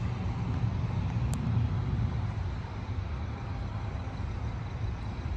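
A semi truck's diesel engine idling: a steady low rumble.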